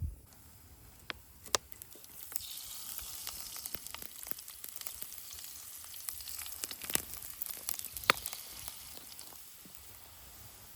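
Food frying in hot oil in a pan, the sizzle swelling about two seconds in, with sharp pops and crackles scattered through it.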